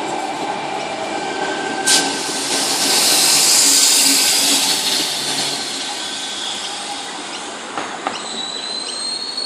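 Sydney Trains Tangara electric train passing along the platform, a steady rush of wheels on rail that swells about three to four seconds in, with thin squealing tones and a sharp click about two seconds in.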